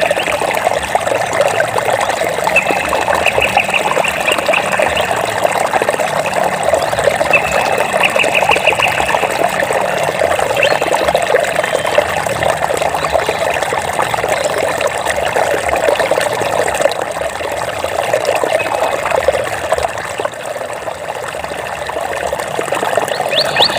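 Running water trickling and splashing steadily, like a small stream. A short high trill sounds twice over it, about three and eight seconds in.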